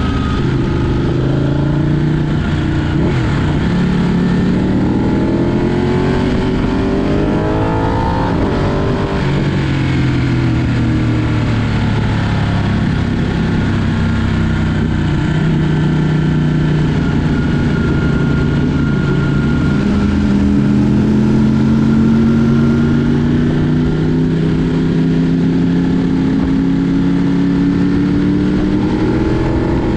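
Ducati Panigale superbike engine riding on the road, its pitch falling and rising with throttle and gear changes in the first third. It then pulls in a long, steady climb in pitch over the last third.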